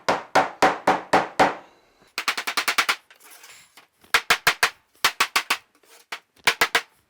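Rubber mallet tapping dovetailed wooden hive sides down into their joints, in several quick runs of sharp taps with short pauses between them.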